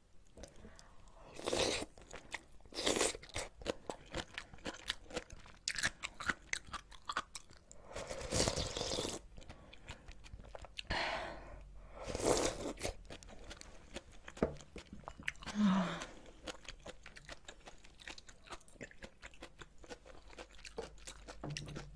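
Close-miked chewing of crunchy kimchi and ramen: a dense run of small crunches and wet mouth clicks, with several louder bites and mouth noises at irregular intervals, one lasting about a second near the middle.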